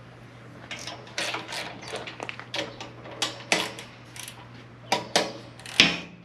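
Irregular metallic clinks and clanks of hand tools working on engine hardware, with one louder clank near the end, over a steady low hum.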